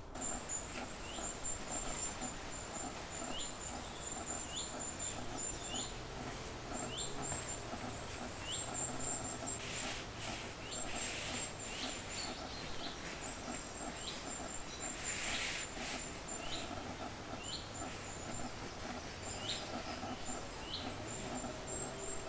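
Small birds calling in woodland: short rising chirps about once a second over a thin, high, dashed trill. Two short bursts of rustling, about halfway through and again a little later, as a nylon sleeping-bag sack is handled.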